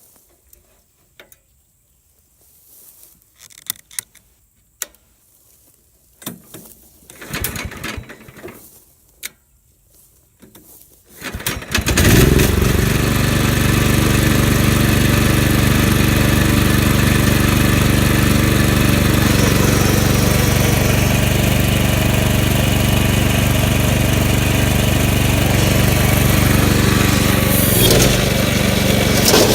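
Scattered knocks and clanks as the Billy Goat brush mower is handled, then its engine starts about twelve seconds in and runs steadily at speed.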